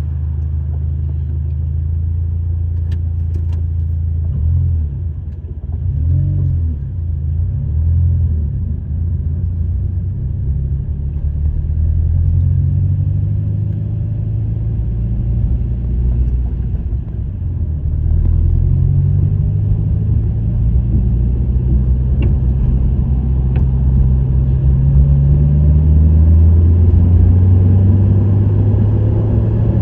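Subaru WRX STI's turbocharged flat-four engine and STI Performance muffler under way: a steady low exhaust drone whose pitch rises with the revs around six seconds in and again from about eighteen seconds on.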